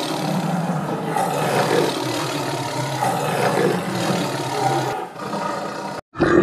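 Tiger growling and roaring, a low continuous growl that thins out about five seconds in and cuts off abruptly. After a brief gap, a short, louder animal call starts just before the end.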